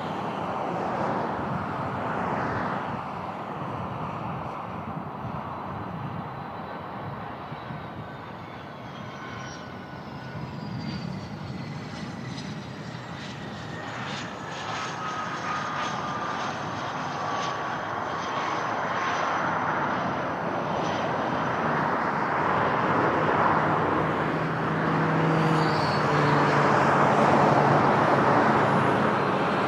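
Aircraft engines passing: a steady rumble with whining tones that slide down in pitch as the aircraft goes by, the sound growing louder toward the end.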